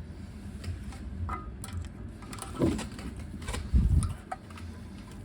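Hand work on a car's rear suspension while fitting a coil spring: scattered metal clicks and knocks, a short falling squeak near the middle, and a heavier thump about four seconds in.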